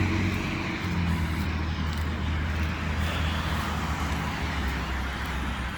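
Road traffic: passing cars, with a steady low engine hum under an even rush of tyre noise that swells about halfway through and fades.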